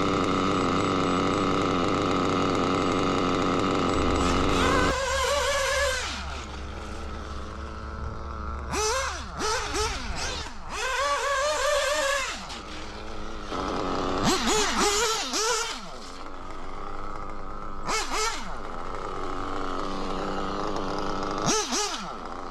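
SPower B7TT nitro model engine, an O.S. B2104-based .21 buggy engine, running at a steady speed, then dropping about five seconds in to idle, with several quick throttle blips that each sweep up and back down in pitch.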